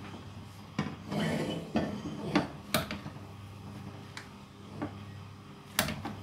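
Scattered knocks and clatter of kitchen utensils and dishes, about seven sharp knocks spread over several seconds, with a low steady hum underneath.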